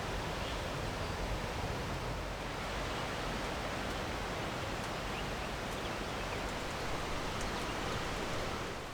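Steady outdoor rushing noise, with a few faint high chirps over it.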